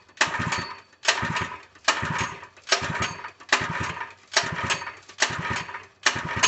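Harbor Freight 3 HP single-cylinder small engine being cranked by hand on its recoil pull-starter, quick repeated pulls a little over one a second, each a short whirring burst that dies away without the engine catching. The engine won't start, which the owner puts down to a fuel delivery problem.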